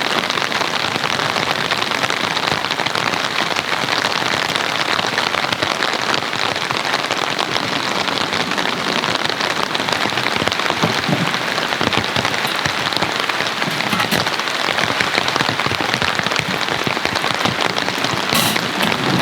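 Heavy rain falling steadily, with dense, fast drops pattering on a surface.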